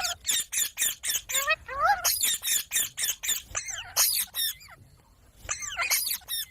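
Parrot squawking and chirping in a rapid string of short, high calls that bend in pitch, falling quiet about five seconds in before a few more calls.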